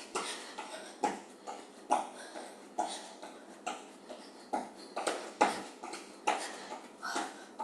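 Jumping jacks in running shoes: a regular rhythm of short landings and hard exhaled breaths, about one or two a second.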